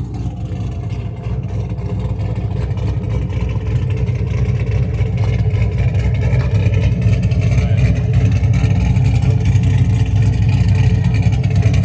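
Cammed Camaro SS V8 running with a steady, loud, low rumble that grows slightly louder over the few seconds.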